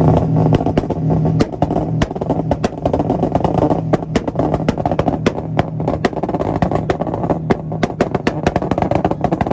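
Subaru Legacy engine held at high revs on a two-step launch-control limiter: a steady, buzzing engine note broken by rapid, irregular exhaust pops and bangs as the ignition cuts in and out.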